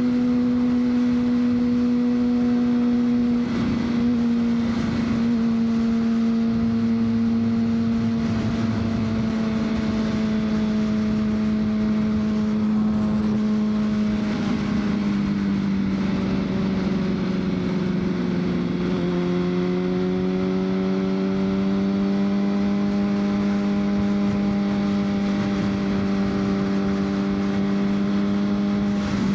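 2003 Honda CBR600RR's inline-four engine running at a steady cruise, its pitch easing a little lower about two-thirds of the way through and then holding, over wind and road noise.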